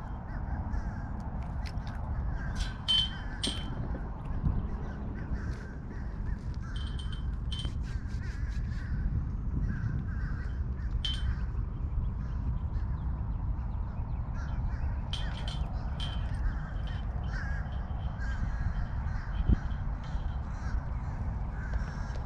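Birds calling outdoors in short, sharp calls that come in clusters every few seconds, over a steady low rumble.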